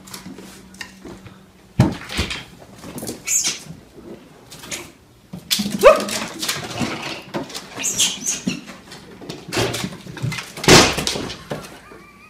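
A pet's short whining cries mixed with irregular knocks and thumps; one cry rises in pitch about halfway through.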